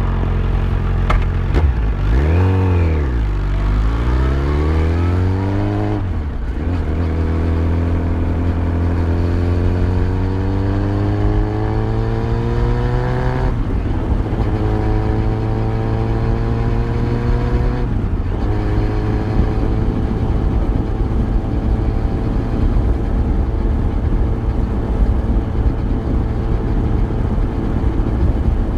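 Yamaha FZ1's inline-four engine under way. The revs fall and rise briefly, then climb steadily through the gears, with upshifts about six, thirteen and eighteen seconds in. After that it runs at a steady cruising speed.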